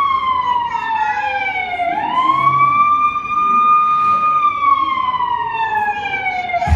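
A siren wailing: its pitch slides down, rises again about two seconds in and holds, then falls slowly until it cuts off near the end.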